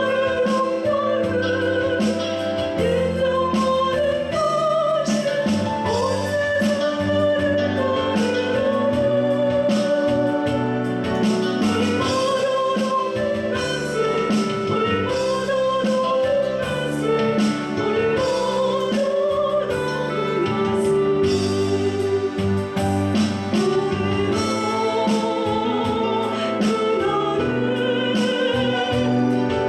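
Woman singing a Korean gospel praise song with a wavering vibrato over steady instrumental accompaniment.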